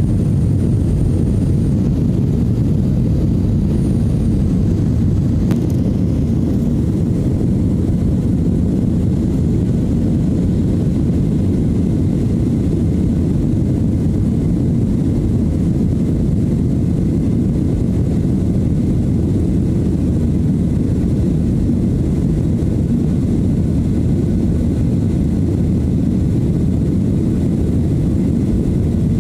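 Steady low rumble of a jet airliner's cabin in flight, the engine and airflow noise holding an even level throughout.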